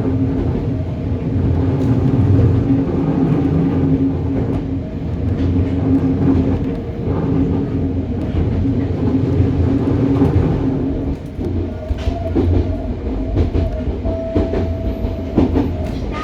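A Hokuriku Railroad 03 series trailer car running along the track, heard from inside the car: a steady rumble of the wheels on the rail with a low hum. A few rail-joint clacks and knocks come in the second half, along with a brief higher tone.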